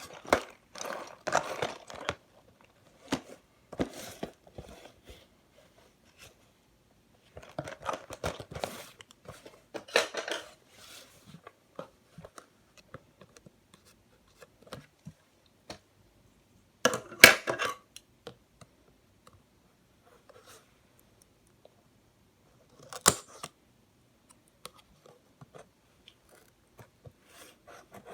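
Packaging of a LEGO set being opened by hand: crinkling and tearing in several separate spells with quiet gaps between, the sharpest one about seventeen seconds in.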